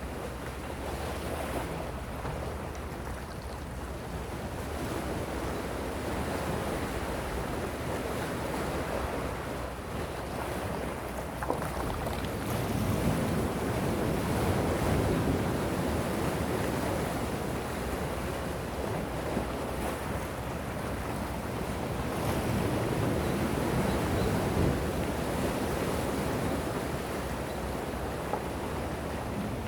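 Gentle sea waves washing onto the shore in slow surges, swelling louder around the middle and again later.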